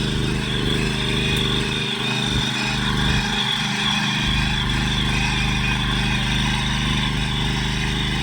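Small petrol engine of a mini power weeder (tiller) running steadily.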